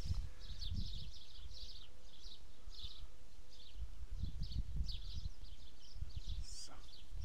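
Small birds chirping over and over in quick short notes, with a low gusty rumble of wind on the microphone underneath.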